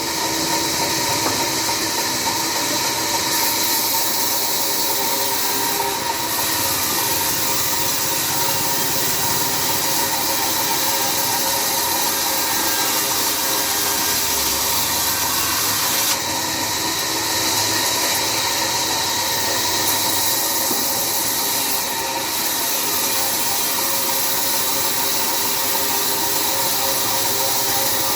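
Sawmill saw running and cutting through a jackfruit log: a steady hiss of blade through wood over the motor's hum, with the cutting noise swelling and easing a few times as the load changes.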